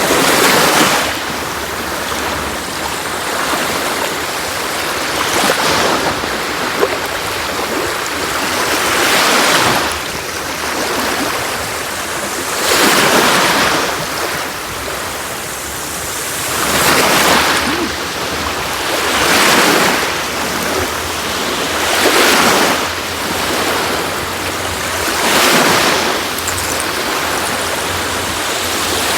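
Sea waves washing onto a beach, a steady rush of surf that swells and fades again every three to four seconds.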